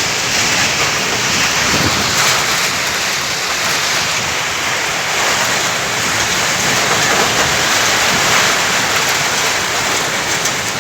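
Sandstorm wind rushing steadily: a loud, even hiss with no let-up.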